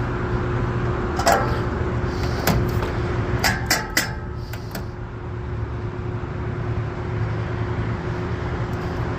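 Steady low machine hum with a constant tone, with a handful of sharp metallic clicks and knocks in the first few seconds.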